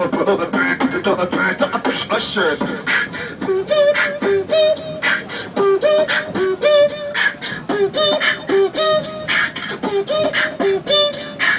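Human beatboxing: rhythmic mouth-made drum clicks and snares, with a hummed melody alternating between two notes laid over the beat from about three seconds in.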